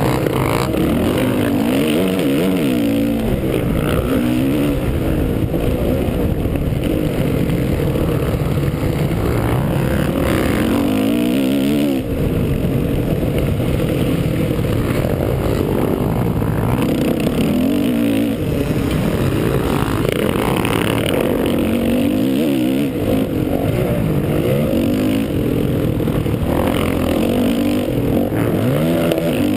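Honda 450 motocross bike's single-cylinder four-stroke engine at race pace, its pitch climbing and dropping again and again as the throttle opens and shuts through the gears.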